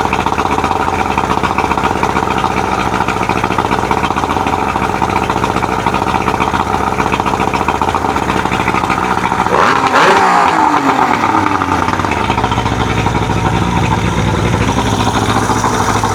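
1999 Johnson 70 hp two-stroke outboard motor running steadily after its carburettor air mixture screws were set to three and a half turns. It briefly revs up about ten seconds in and the revs fall back over the next couple of seconds. It sounds good.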